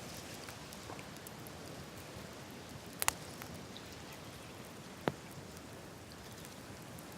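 Open wood campfire crackling, with a few sharp pops of burning wood: a double pop about three seconds in and another about five seconds in.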